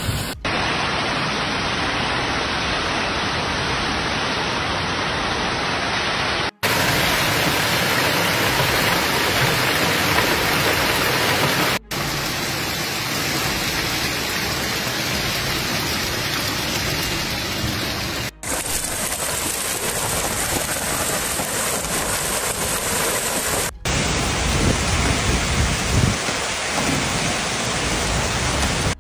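Heavy storm rain pouring down, a dense steady hiss. It comes in several short clips that cut off abruptly one to the next, with low rumbles in the last clip near the end.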